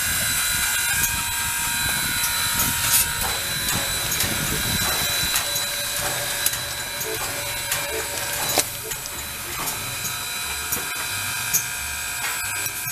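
Train rolling by: a steady high-pitched wheel squeal over a low rumble, with many irregular clicks and clanks.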